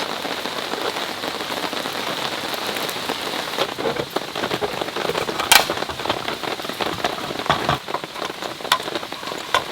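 Heavy rain falling on a camping tarp: a steady dense wash with many separate drop hits, and one sharp louder tap about five and a half seconds in.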